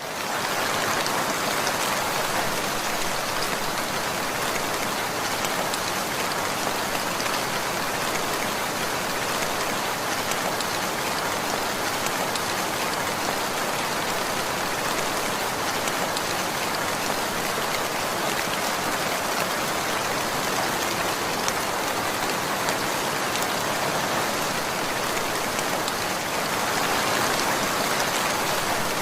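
Steady rain falling: an even hiss of many drops on a surface, with faint scattered individual drop ticks.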